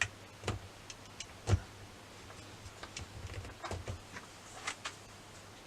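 Scattered small clicks and taps of plastic RC-car parts being handled while a steering link is fitted to the servo, with one louder click about a second and a half in.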